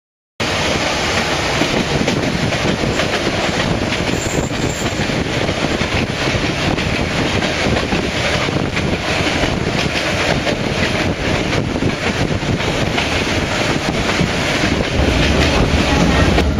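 Vietnam Railways passenger train on the metre-gauge North–South line, running and heard from inside the carriage: a steady rumble and rattle of wheels and coach, with the low rumble growing louder near the end.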